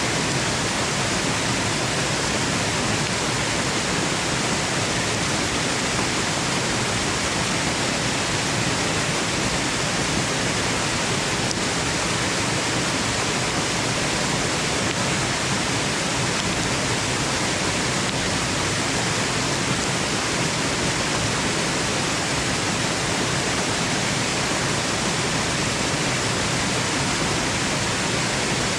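Steady, unchanging rush of a waterfall, an even hiss of falling water with no breaks or distinct splashes.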